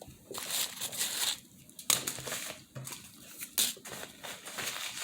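Close-up eating sounds: crunching and rustling in irregular bursts, with a few sharp clicks.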